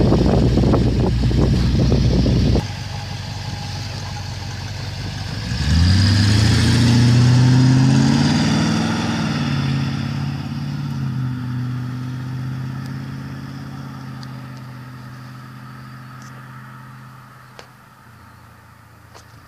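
Mercedes-Benz W108 saloon's engine and exhaust, running loud and rough at first, then dropping suddenly about two and a half seconds in. About six seconds in the revs rise as the car accelerates, then settle to a steady note that slowly fades away.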